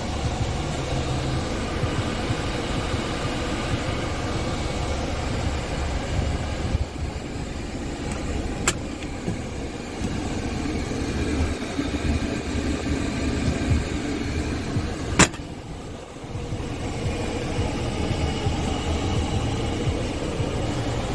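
Scania S tractor unit's diesel engine running steadily, with two sharp clicks, one about nine seconds in and a louder one about fifteen seconds in, followed by a brief drop in level.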